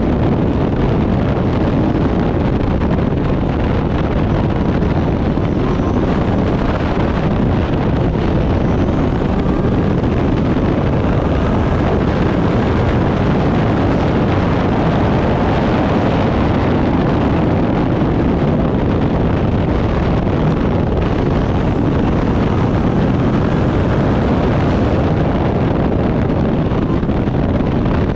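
Turbocharged Backdraft Cobra race car engine running hard at speed, with wind buffeting the microphone. The sound stays loud and even throughout, with no cars passing by.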